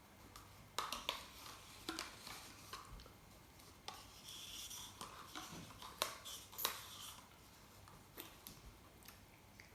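Faint, scattered clicks and a light rustle of small things being handled, about a dozen short ticks spread over the pause.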